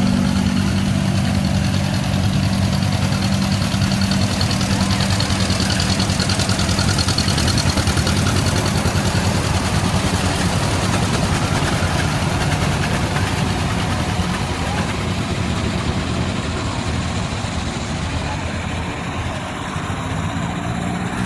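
An engine idling steadily, with a constant low note.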